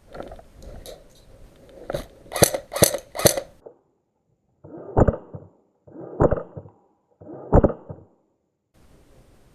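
Airsoft gun shots: sharp pops, four of them in quick succession about two to three seconds in, then three single pops about a second and a quarter apart with dead silence between them.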